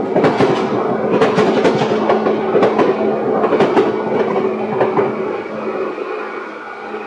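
Seibu 10000 series electric train running, heard from on board: a quick run of wheels clacking over rail joints over a steady motor hum. The clacks thin out and the sound quietens over the last two seconds.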